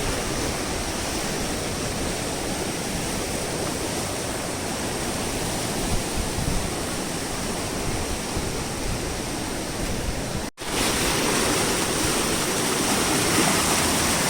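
Rain-swollen stream rushing fast and steady. The sound drops out for an instant about ten seconds in, then carries on a little louder.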